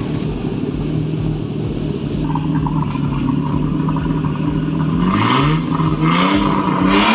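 Nissan Skyline R34's single-turbo RB25 straight-six running at a steady, fairly high speed, then revved up in several quick rising blips near the end.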